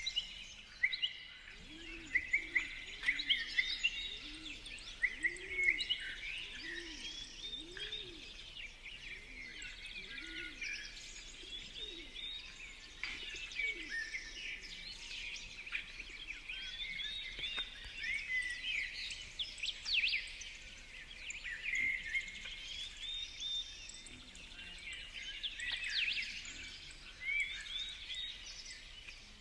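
Several wild birds chirping and calling over one another, with a low repeated call about once a second through the first ten seconds or so.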